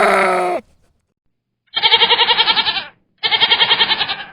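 Goat bleating three times: one call ending about half a second in, then two quavering bleats of about a second each.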